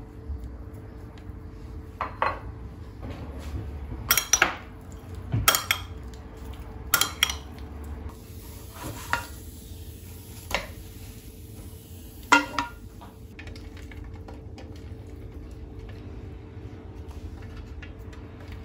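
Dishes and cutlery clinking and knocking in a kitchen: about seven sharp clinks, some in quick pairs, over a steady low hum.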